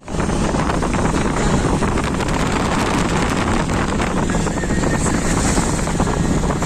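Loud, steady rushing noise with a rumbling low end and no clear tone.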